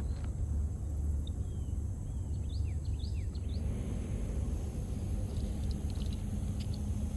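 Outdoor ambience: a steady low rumble, with a small bird giving a quick series of short chirps about one to three seconds in.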